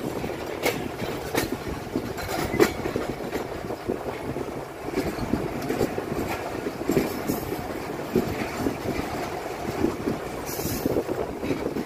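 Passenger train coach rolling slowly along the track, heard from its open doorway: a steady rumble with wheels knocking over rail joints at irregular intervals. The train has slowed for track maintenance work.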